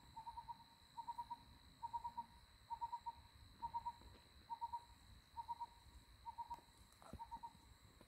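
A bird calling: short whistled notes at one pitch, in quick groups of three or four, repeated about once a second. A faint steady high tone runs underneath.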